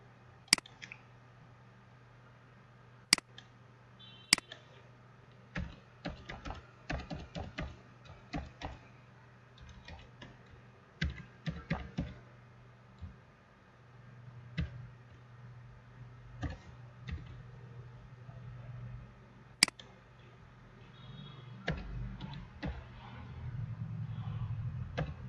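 Typing on a computer keyboard in irregular bursts, with a few louder single clicks, over a steady low hum.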